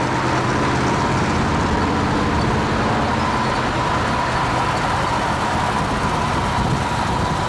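Car cruising at highway speed: a steady engine drone under road and wind noise, with a thin constant whine.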